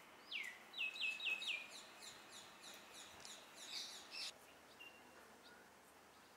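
A bird calling: a few downward-sliding whistled notes, then a fast run of shorter, higher notes at about four a second that stops a little past four seconds in.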